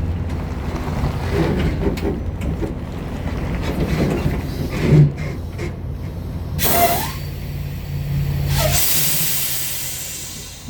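Semi truck's diesel engine running with a steady low hum, and two hisses of air brakes: a short one about six and a half seconds in and a longer one near the end, when the engine hum drops away.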